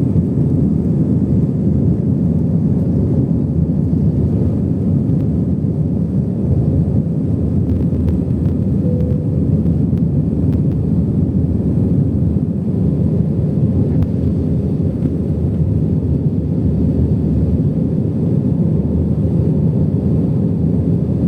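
Airplane engines during takeoff, a loud, steady low rumble with no change in pitch or level.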